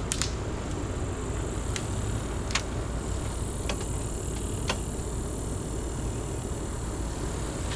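A motor running steadily with a low rumble, with about five sharp clicks or snaps scattered through it.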